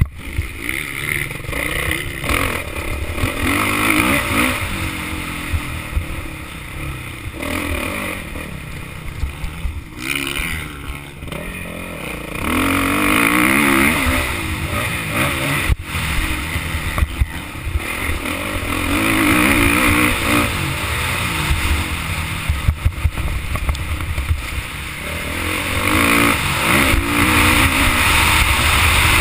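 Motocross bike engine being ridden hard, its revs climbing and dropping again several times with gear changes, picked up by a bike- or helmet-mounted action camera. A few sharp knocks come through, one about halfway through and another a few seconds later.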